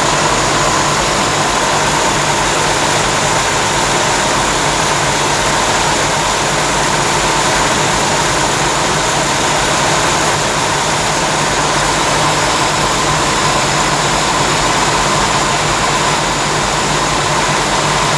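Jeep 4.2-litre straight-six engine running steadily at an unchanging speed.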